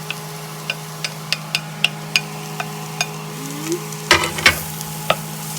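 Onion, bell pepper and garlic sizzling in a roux in a pot as they are stirred, with a utensil clicking and knocking against the pot: scattered sharp clicks, then a louder cluster of knocks about four seconds in. A steady low hum runs underneath.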